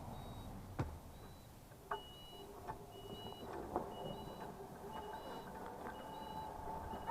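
Vehicle reversing alarms beeping: a high beep repeating about once a second, joined about two seconds in by a second, slightly lower beeper that alternates with it. A few sharp knocks and a low rumble lie under the beeping.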